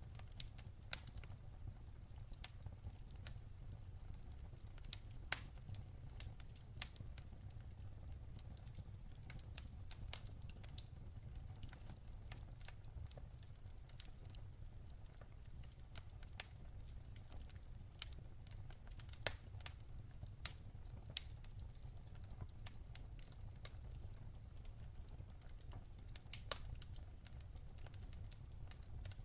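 Campfire crackling: burning wood giving off irregular sharp snaps and pops, a few louder ones standing out, over a steady low rumble.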